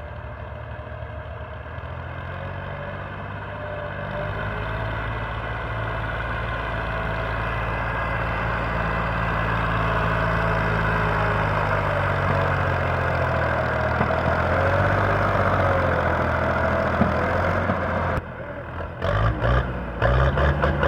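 Tractor diesel engine running steadily, growing louder over the first dozen seconds. Near the end the sound drops and breaks up in short choppy cuts.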